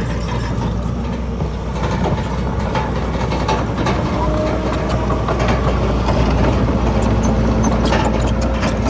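Heavy diesel earthmoving machinery running steadily, with scattered clanks and knocks.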